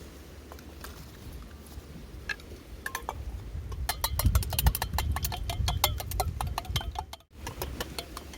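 Light metallic clinking, like utensils on camp cookware, that grows into a quick run of many clicks a second for about three seconds, over a steady low rumble.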